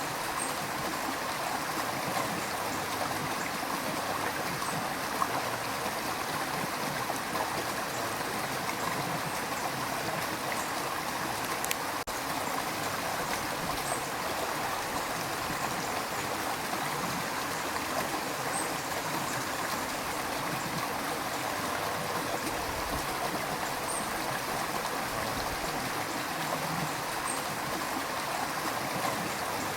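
River water rushing steadily, a continuous even rush.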